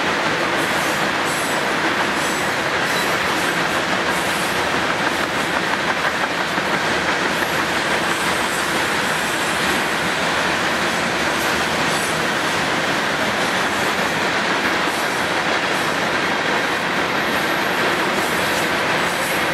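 Freight train cars (covered hoppers, then boxcars) rolling past at speed: a steady, loud wheel-on-rail noise with many short clicks and rattles.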